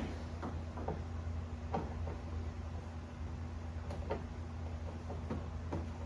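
A few scattered light clicks and knocks of a hand ratchet being fitted and positioned on a hose clamp, over a steady low hum.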